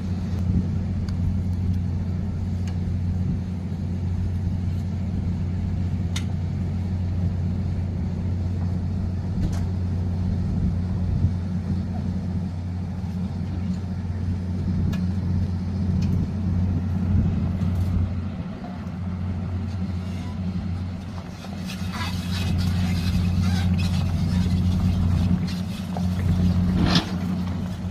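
Engine of a six-wheel-drive agricultural lift running steadily with a low hum, easing off briefly partway through. Light clicks and clatter from the machine grow louder later on, with a sharp rattle near the end.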